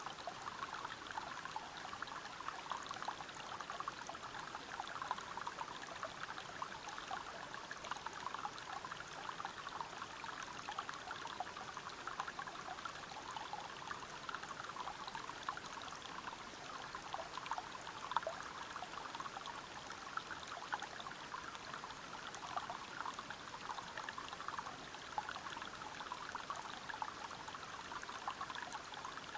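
Waterfall and river water splashing and flowing over rocks, a steady, even rush with fine spattering detail.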